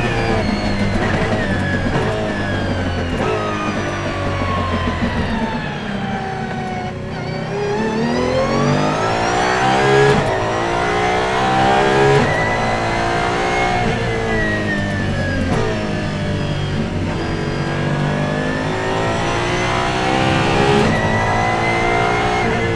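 The Apollo Intensa Emozione's 6.3-litre naturally aspirated V12, heard on board at racing speed. Its revs wind down for the first several seconds with a few sharp cracks, then climb hard, fall back around the middle, and climb again near the end.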